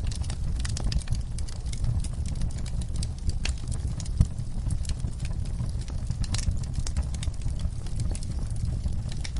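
Wood fire burning in a fireplace, crackling and popping irregularly over a steady low rumble, with one louder pop about four seconds in.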